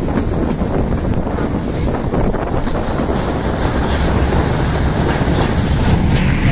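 Kangra Valley narrow-gauge train running along the track, heard from aboard: a steady rumble of wheels on rail with a few faint clicks from the rail joints.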